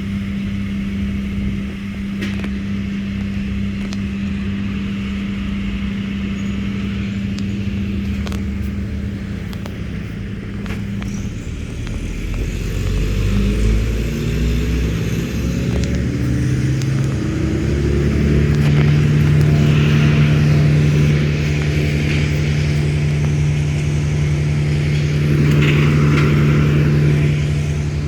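An engine running steadily. About twelve seconds in, its pitch shifts, and it then settles into a louder, steady run.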